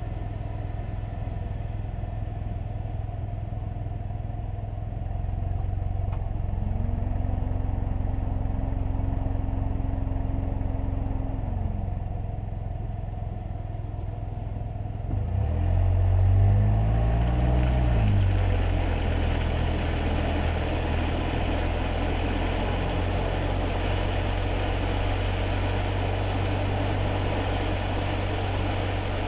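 Kei car driving on a wet road, heard from inside the cabin: a steady low engine and road rumble with tyre noise. The engine note rises at about six seconds, holds and falls away near twelve, and it is loudest around sixteen seconds, after which the hiss of tyres on the wet road is stronger.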